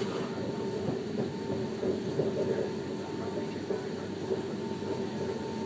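Airport passenger train running, heard from inside the car: a steady rumble of wheels on rails with a thin steady whine over it.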